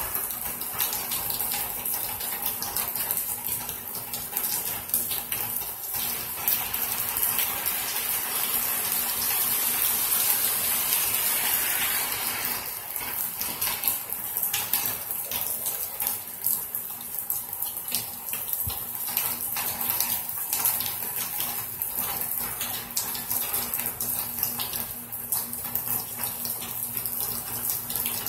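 Steady heavy rain falling, with many close drips pattering. It grows louder for a few seconds about ten seconds in, then settles back.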